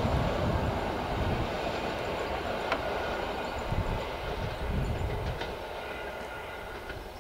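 Train wheels rumbling on the rails as a passenger train moves away, fading steadily, with a few sharp clicks.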